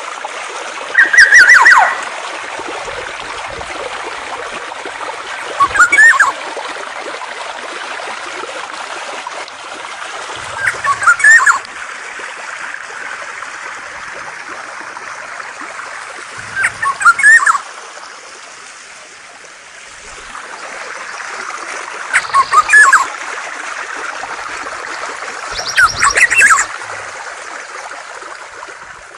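Flowing water running steadily, with a songbird's loud call of rapid notes repeated six times, about every five seconds, each call lasting about a second.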